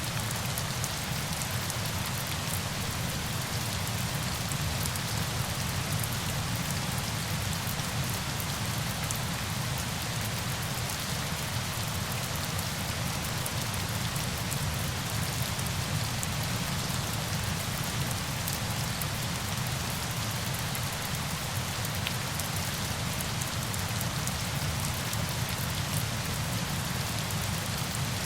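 Steady falling water: an even, unbroken hiss with a low rumble underneath and fine high patter of many small drops.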